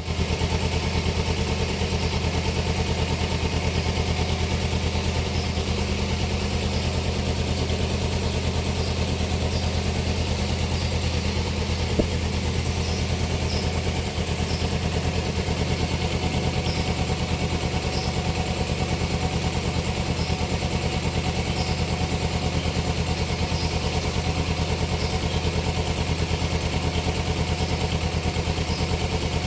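Kawasaki Ninja 250 FI's parallel-twin engine idling steadily through its stock exhaust, with one sharp click about twelve seconds in.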